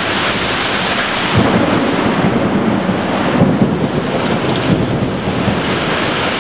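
Thunderstorm: steady heavy rain and gusting wind buffeting the microphone, with a deep rumble of thunder swelling up about a second and a half in.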